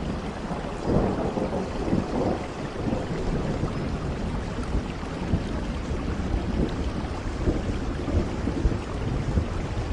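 Steady rain falling, a dense patter with a low rumble underneath that swells briefly about one and two seconds in.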